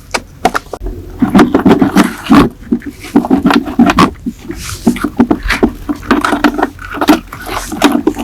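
Workshop work noise: a fast, irregular run of clicks and knocks with scraping between them, as parts are handled and worked with tools.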